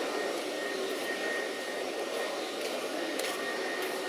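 Steady background hiss and hum of a busy indoor market hall, with faint distant voices.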